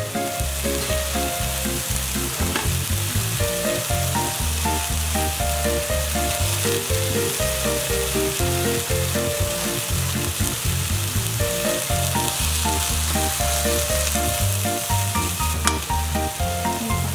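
Chicken-and-tofu hamburg patties sizzling steadily in oil in a non-stick frying pan over medium heat, with one light click near the end.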